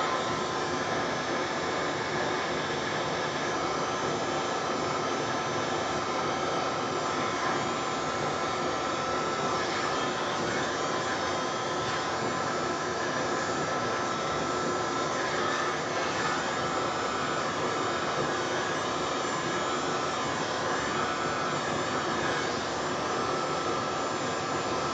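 Hair dryer running steadily on high, blowing wet acrylic paint across a canvas in a Dutch pour.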